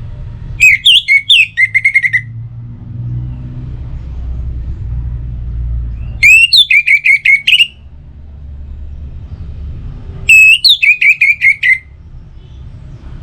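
Orange-headed thrush singing three short phrases several seconds apart, each a quick run of repeated whistled notes, over a steady low rumble.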